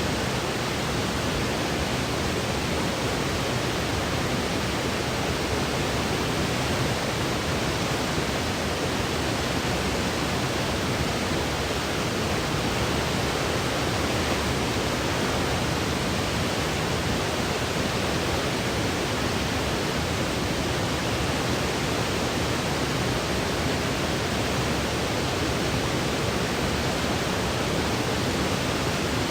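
Steady, unchanging synthetic noise of the white/pink-noise kind, a smooth even hiss with nothing else in it, played as a sleep aid.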